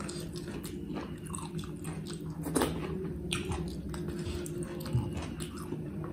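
Close-up mouth sounds of a person eating rice and curry by hand: chewing and lip smacks in a run of short clicks, with a sharper click about two and a half seconds in. Fingers work through the rice and gravy on a plate, over a steady low hum.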